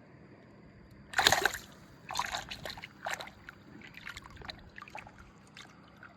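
Water splashing: one loud splash about a second in, then a run of smaller splashes and drips.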